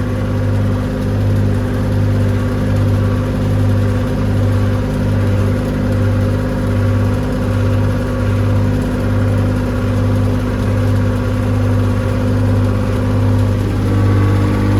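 Massey Ferguson 135 tractor's Perkins three-cylinder diesel running at a steady speed with the PTO engaged, driving a feed wagon's chain and beaters as it throws out cattle feed.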